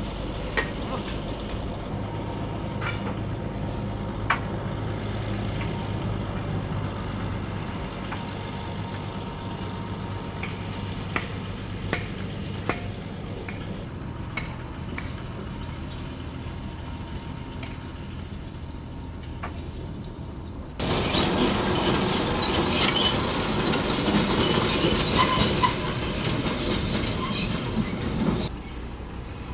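Track-maintenance rail car's engine idling with a steady low hum while tools clink sharply now and then on the steel of a rail switch under repair. About two-thirds of the way in, a much louder, harsh noise sets in for about seven seconds and then cuts off.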